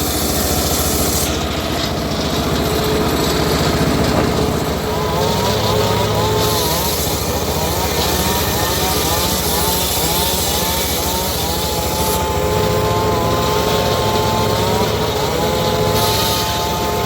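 Homemade circular sawmill running: its engine runs steadily with a fast low pulse, and from about five seconds in a whine rises and falls in pitch as the saw works.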